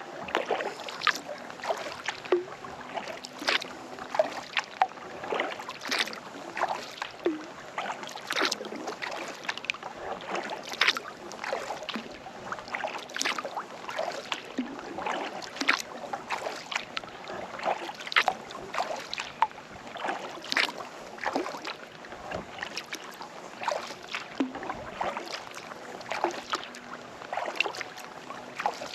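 Kayak paddle strokes through calm lake water: many short splashes and drips from the paddle blades, several a second.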